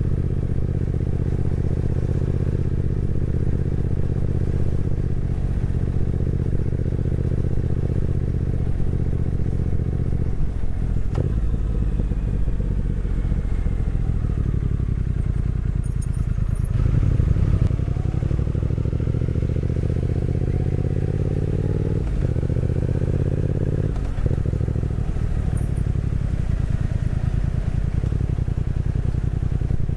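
Motorcycle engine and exhaust while riding: a steady engine note at first, then short dips in the note and stretches where the pitch climbs as the bike accelerates through the gears in the second half.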